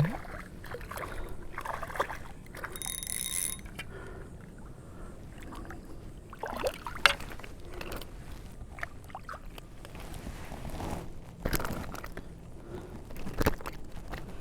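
Scattered knocks, clicks and rustling on a kayak as a small, freshly caught speckled trout is handled, with a short ringing, pitched sound about three seconds in.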